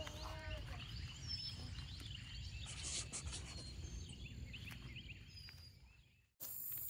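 Birds chirping and calling outdoors, many short chirps over a low rumble of outdoor background noise; the sound fades about six seconds in.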